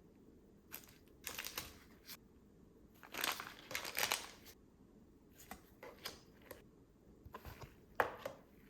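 Crinkling of plastic candy-kit packaging being handled, in short irregular bursts.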